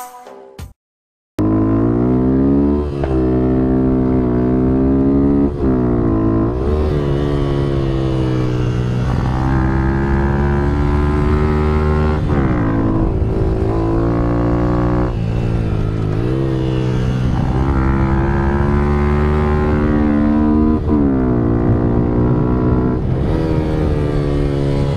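Motorcycle engine running hard under load, its pitch climbing as the revs rise and dropping back sharply at each gear change or throttle lift, over and over. A brief silence comes about a second in, before the engine sound starts.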